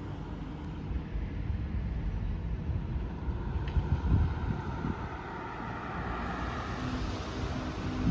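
Wind buffeting the microphone over a low rumble of street traffic, with a hiss that swells in the second half.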